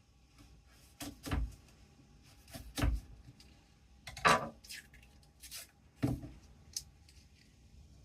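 Kitchen handling noises: a string of knocks, clinks and short scrapes of dishes and utensils being moved about, the loudest about four seconds in.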